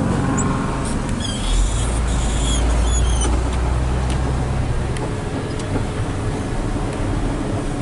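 Hino 500 FM320TI heavy truck's diesel engine droning steadily, heard from inside the cab while driving, with road noise. A few short high squeaks sound in the first half.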